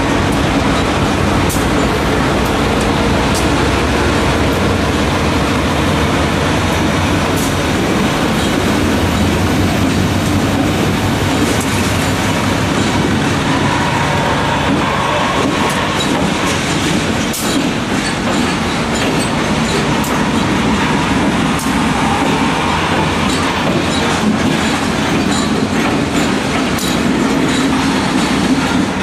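A multi-unit diesel freight train passing at close range: its lead locomotives, including CSX AC6000CW units and a Southern Pacific tunnel motor, rumble by with their engines running, with wheels clicking over rail joints throughout.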